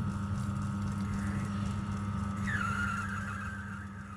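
Machine tool running steadily while boring out the middle of a nylon block. About two and a half seconds in, a high squeal starts as the cutter bites the nylon; it drops quickly in pitch and then holds.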